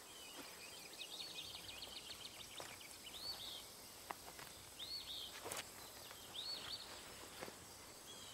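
Faint birdsong: short arched chirps repeated every second or so, with a quick run of chirps about a second in. A few soft clicks sound under it.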